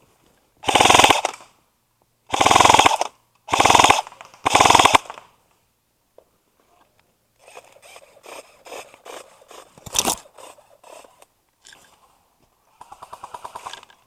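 Airsoft electric guns (AEGs) firing on full auto. Four loud bursts of rapid fire come in the first five seconds. Then there is fainter rapid fire, a single sharp snap about ten seconds in, and another short burst near the end.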